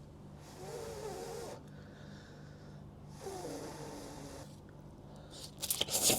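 A man moaning twice in wavering, whimpering breaths, then starting to cough loudly near the end: his reaction to the burn of extremely spicy food.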